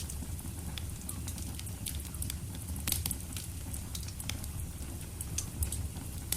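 Wood fire in a fireplace crackling and popping, sharp irregular snaps over a steady low rumble of the flames.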